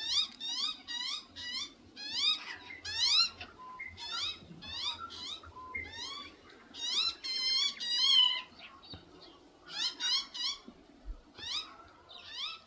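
Pet bird calling: runs of short, rising chirps, with a wavering trill about seven seconds in.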